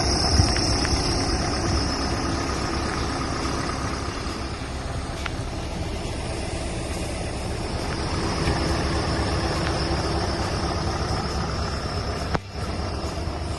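Scania R 650 truck's 16-litre V8 diesel engine running steadily, with a brief break in the sound near the end.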